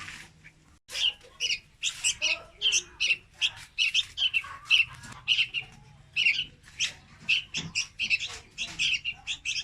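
Young red-whiskered bulbul giving rapid, sharp, high-pitched calls, about three a second, starting just under a second in after a brief silence.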